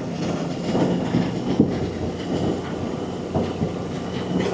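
Vehicle creeping slowly over a rough dirt road: a steady low engine hum under continuous rattling and clattering, with a sharper knock about one and a half seconds in.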